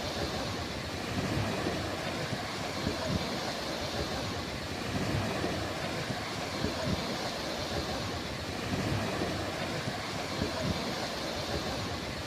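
Ocean surf washing steadily onto a beach, with low gusts of wind buffeting the microphone.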